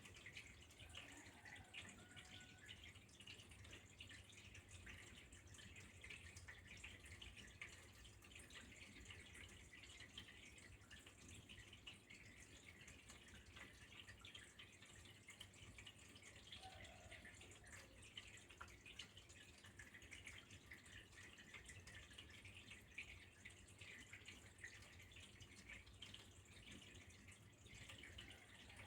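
Faint, steady trickle of flowing water with fine dripping and splashing.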